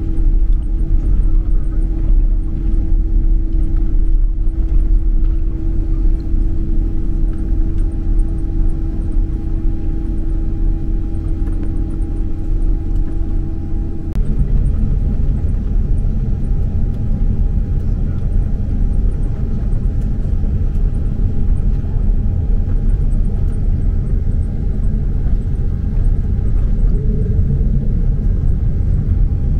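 Boeing 767-300 cabin noise: a steady low rumble of the engines and airflow, with a steady hum over it that stops about halfway through, after which the rumble grows a little louder.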